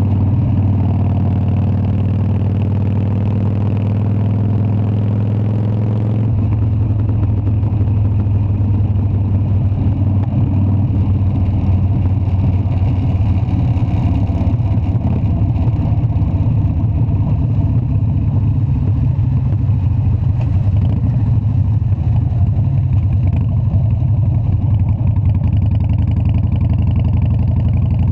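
Harley-Davidson Dyna's V-twin engine running steadily. About six seconds in its sound changes suddenly to a rougher, denser rumble.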